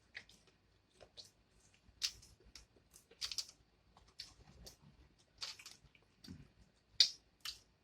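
Wet smacks and clicks of a mouth chewing food close to the microphone, about a dozen short irregular ones.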